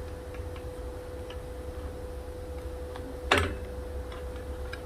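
Light scattered clicks of small metal parts as a limit switch is fitted onto a boiler pipe fitting, with one sharper knock about three seconds in. A steady hum runs underneath.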